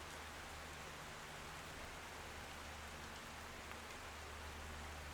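Steady rain falling in an even, continuous patter, with a low steady hum underneath.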